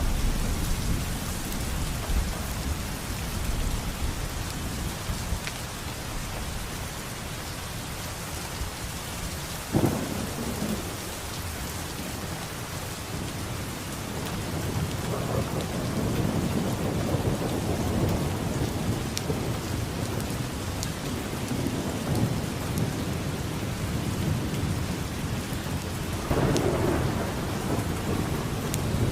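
Steady rain falling with thunder: a sharp thunderclap about ten seconds in, then long low rolling rumbles through the second half, swelling again near the end.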